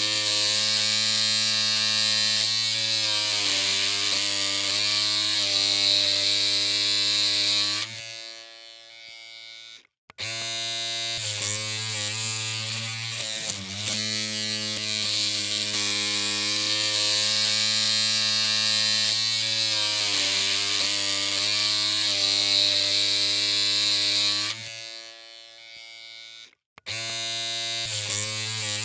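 Electric hair clippers running with a steady buzzing hum, cutting out twice for a couple of seconds and then starting again.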